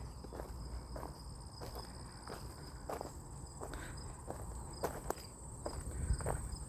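Footsteps along a trail, about two steps a second, over steady insect calls: one high continuous trill and a second, lower one that pulses.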